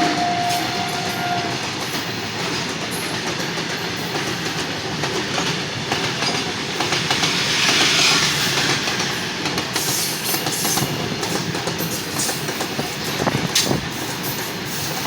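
Train running on the rails with a steady rumble and clatter; a train horn's held note cuts off about a second and a half in, a hiss swells around the middle, and scattered clicks and knocks come near the end.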